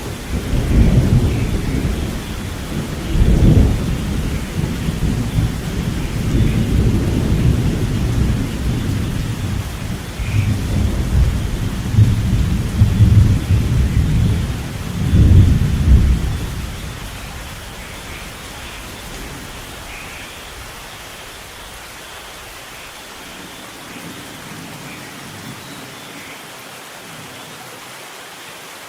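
Thunderstorm: long rolling thunder rumbling over steady rain, with loud peaks about a second in, at three and a half seconds, and around twelve to sixteen seconds, then the thunder fades out leaving only the even hiss of rain.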